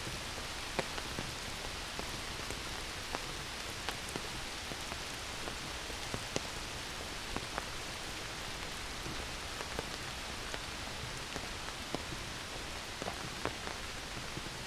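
Steady rain falling on a forest, an even hiss with frequent sharp ticks from single drops close by.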